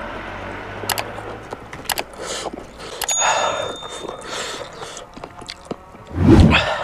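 Close-up eating sounds: a person chewing and biting into smoked pork, with scattered crunchy clicks, and a loud burst of sound near the end.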